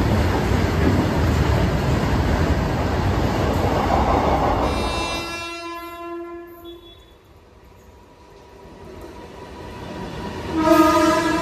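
Freight train rolling past with a steady rumble that fades out about five seconds in. A train horn sounds for about two seconds in the middle. Then a WAG-12B electric freight locomotive approaches, growing louder, and gives a loud horn blast near the end.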